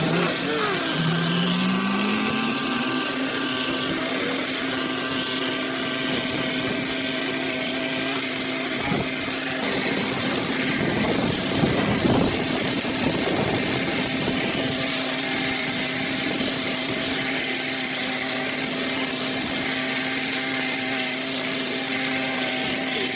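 Small engine speeding up over the first couple of seconds, then running at a steady high speed with an even, unchanging pitch.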